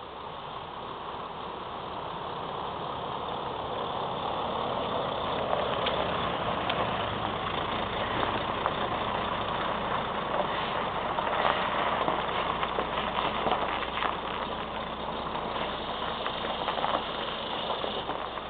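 Truck engine running, growing louder over the first several seconds as it draws nearer, then holding steady with occasional knocks and rattles.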